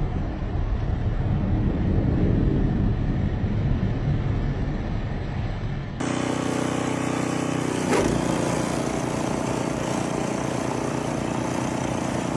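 Vehicle engine and road noise: a low rumble, then after a cut about six seconds in, a steady engine hum with a single knock near eight seconds.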